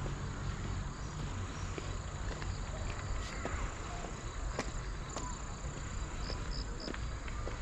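Outdoor park ambience: a steady high insect chirring, scattered light footsteps on a path, and three short high chirps in quick succession near the end.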